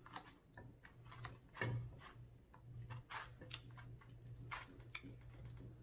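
Faint, scattered clicks and soft taps of a utensil working through collard greens in a food container, over a low steady hum.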